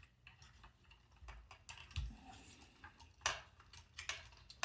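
Irregular light clicks and taps of plastic robot parts and cables being handled, with a dull knock about two seconds in.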